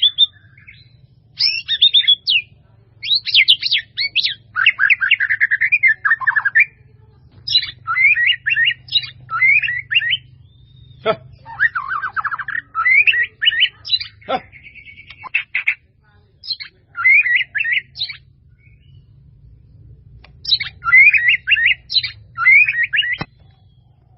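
A bird chirping in quick repeated phrases with short pauses between them, over a steady low hum.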